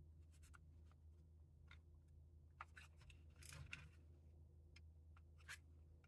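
Faint, scattered clicks and a brief scrape of small pistol parts being handled and pressed into place, over a low steady hum.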